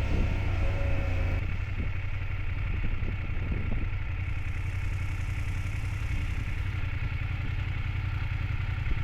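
BMW F800GS parallel-twin motorcycle engine running steadily while riding, a low drone mixed with wind and road noise.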